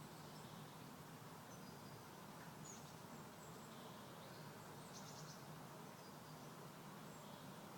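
Faint, high small-bird chirps scattered over a steady low background hiss, with a short rapid trill of a few notes about five seconds in.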